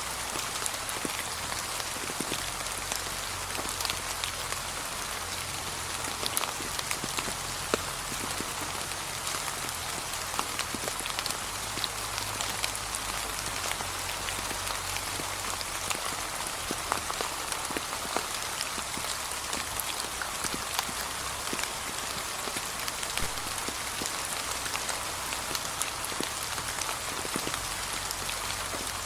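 Steady gentle rain falling on a path covered with fallen autumn leaves, with a scattering of individual drop ticks over an even patter.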